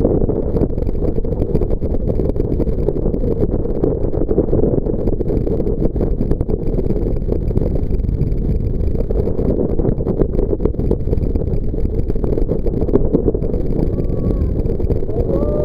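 Jet boat running under way: a steady, loud rush of engine and water.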